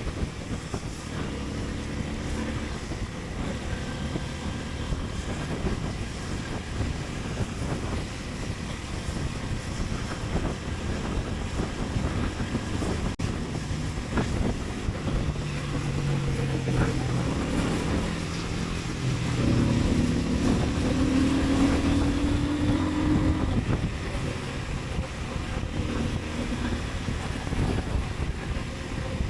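Motorcycle engine running on the move, with wind rushing over the microphone. About two-thirds of the way through, the engine note climbs in pitch and grows louder as the revs rise, then eases back.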